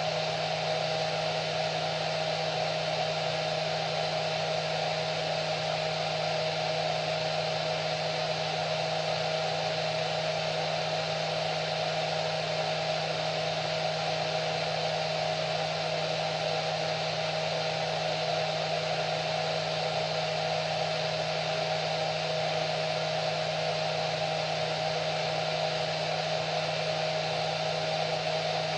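Hair dryer running steadily, a continuous airflow rush with a steady motor whine.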